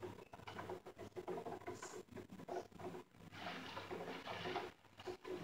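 Rain pattering on a window pane, heard from indoors: faint, irregular light taps that thicken for about a second in the middle.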